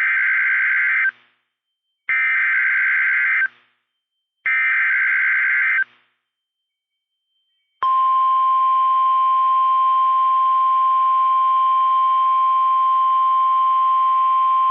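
NOAA Weather Radio alert signal. It opens with three short bursts of warbling digital data tones (the SAME alert header), each about a second and a half long. About eight seconds in, the steady single-pitch 1050 Hz warning alarm tone starts, the tone that marks a warning broadcast such as a severe thunderstorm warning.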